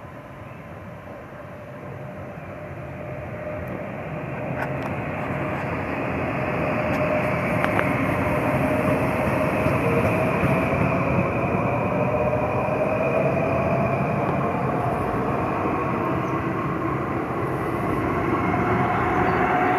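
Metro-North M8 electric multiple-unit train passing close by: a rumble of wheels on rail that grows louder over the first several seconds and then holds steady, with a motor whine that slowly rises in pitch.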